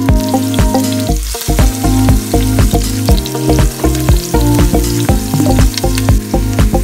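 Chopped garlic and onions sizzling and crackling in hot oil in a stainless steel pot while a wooden spoon stirs them, under background music with a steady beat.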